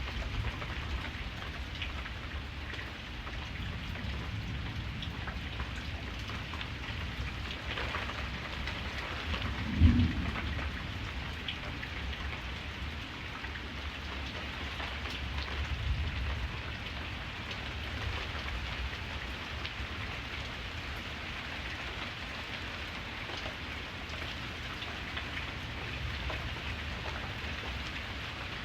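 Steady rain, with one short, sharp clap of thunder about ten seconds in and a softer low rumble a few seconds later.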